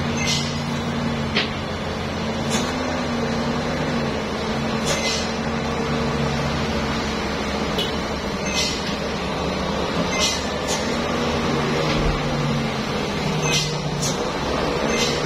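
Heavy truck's diesel engine running steadily, with about a dozen short air-brake hisses scattered through it.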